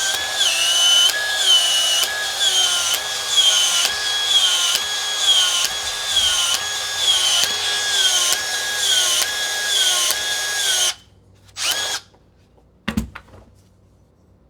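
Power drill boring through wood. The motor whine dips and recovers in a regular pattern, about twice a second, as the bit loads up, then stops abruptly about eleven seconds in. A couple of brief knocks follow.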